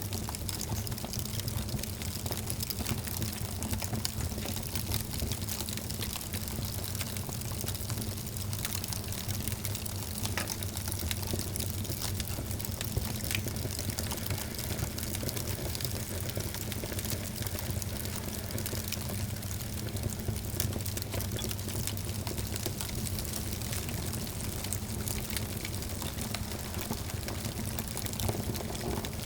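Wood fire burning in a fireplace, crackling steadily with frequent small pops over a low, even rumble of the flames.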